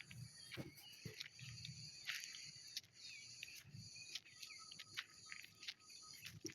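Faint outdoor ambience of insects trilling steadily at a high pitch, with many short bird chirps and a few small clicks over it.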